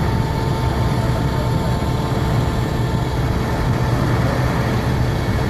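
Concrete pump truck's diesel engine running steadily, a continuous low hum with a few steady tones above it.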